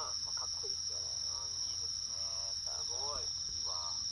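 Crickets trilling in one steady, high-pitched note, with indistinct voices of people talking in the distance.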